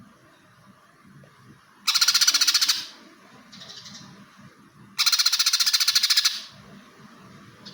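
Greater green leafbird (cucak hijau) singing two loud, rapid chattering bursts, the first about a second long and the second about a second and a half, mimicking the squabbling calls of fighting tree sparrows; softer calls come between them.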